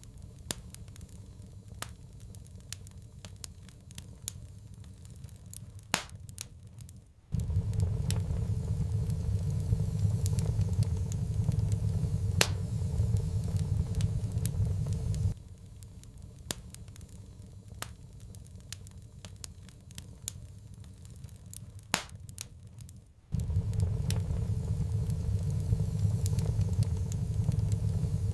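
Wood fire in a fireplace crackling, with scattered sharp pops. A low steady rumble cuts in abruptly about seven seconds in, stops about eight seconds later, and cuts in again near the end.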